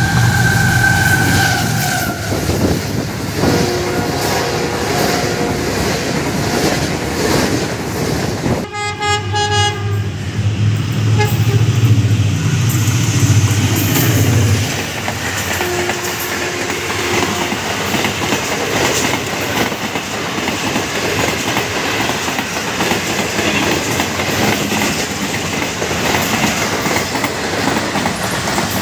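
A diesel locomotive sounds its horn several times as it approaches, then passes close with its engine drone loudest for a few seconds. A long rake of passenger coaches then rolls by at speed, with the wheels clattering over the rail joints.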